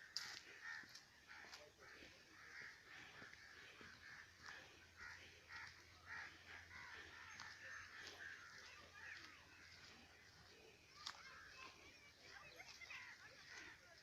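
Faint birds calling, many short calls overlapping throughout, with a few sharp clicks.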